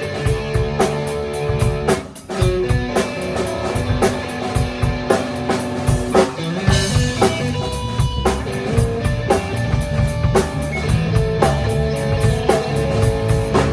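Rock band playing an instrumental passage on guitar and drum kit, with a steady beat and sustained guitar notes. The playing dips briefly about two seconds in.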